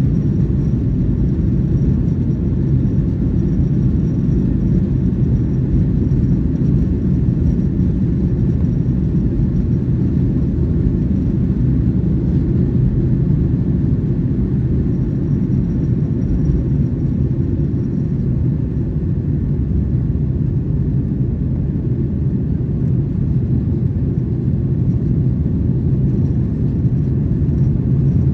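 Steady cabin rumble of a Boeing 737-900ER, its two CFM56-7B engines and airflow heard from inside the passenger cabin, with a faint high whine that fades out and back in.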